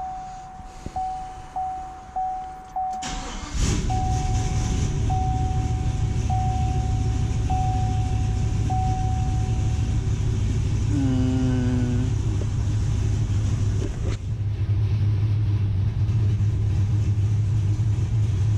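A truck's warning chime beeps over and over. About three seconds in, the V8 engine with a Texas Speed Stage 4 cam and DOD delete cranks, catches with a slight hesitation and settles into a steady idle on a fresh tune. The chime keeps going until about ten seconds in.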